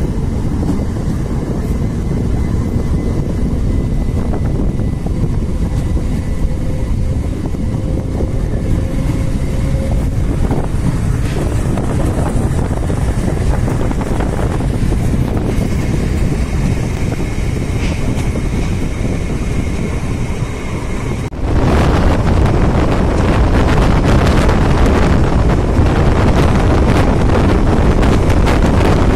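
Electric MEMU train running and picking up speed, heard from an open doorway: a steady rumble with wind buffeting the microphone. The noise grows suddenly louder about three-quarters of the way through.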